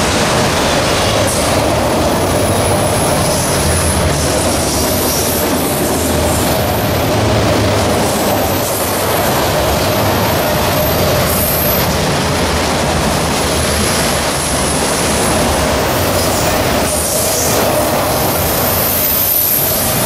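Autorack freight cars passing close by at speed: a loud, steady rumble of steel wheels on the rails, with a thin, high-pitched wheel squeal that comes and goes several times.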